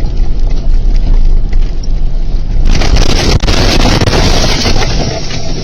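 Vehicle on the move: steady low road and wind rumble, with a louder rushing noise for about two seconds in the middle.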